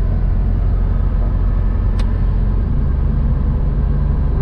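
Volvo 240 driving, heard from inside the cabin, with a steady low engine and drivetrain drone. A single sharp click about two seconds in, then the engine note shifts a little as the M46 gearbox's overdrive engages and works.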